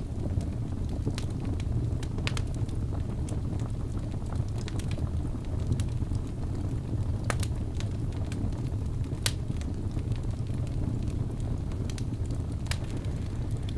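Fire crackling: a steady low rumble with sharp pops and snaps scattered at irregular intervals.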